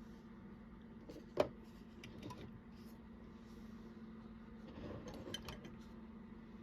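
Faint handling of a small Hot Wheels toy truck in the hands: one sharp click about a second and a half in and a few light clicks and rustles around five seconds in, over a steady faint hum.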